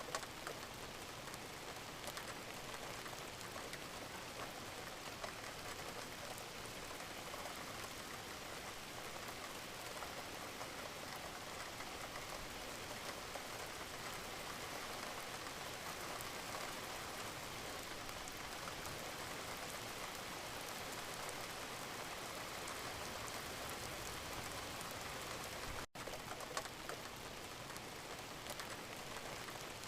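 Steady rain falling, an even hiss of many drops, with one split-second gap in the sound about three-quarters of the way through.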